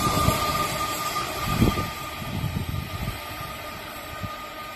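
Tilt train running away after passing, its rail noise fading steadily as it recedes, with a thin steady whine. A few low thumps come about a second and a half in.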